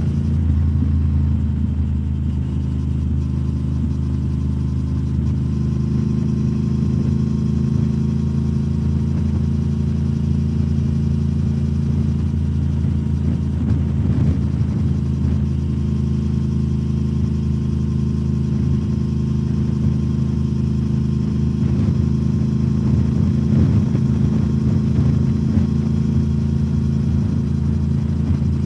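2021 Triumph Speed Twin 1200's parallel-twin engine running through British Customs Turnout exhaust tips while the bike cruises at a steady engine speed, with a slight swell in level near the end.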